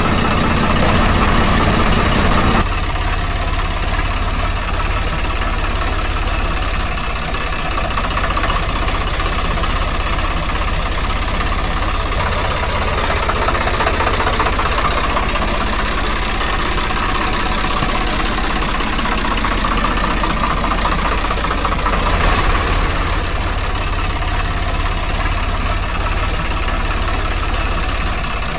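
A motor running steadily with a constant low hum, its tone shifting once about two and a half seconds in.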